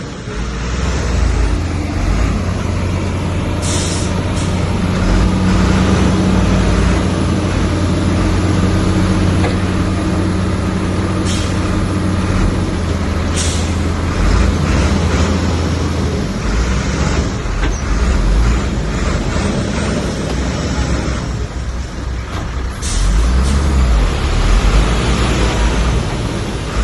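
Diesel engines of heavy earthmoving machinery running with a deep steady drone, broken by four short, sharp high-pitched hisses or clanks spread through.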